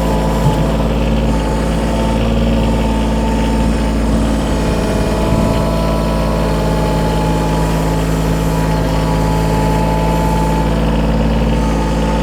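Kioti compact tractor's diesel engine running steadily, with a constant engine tone.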